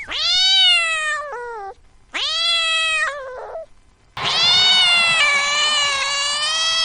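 A cat meowing three times, the last meow long and drawn out.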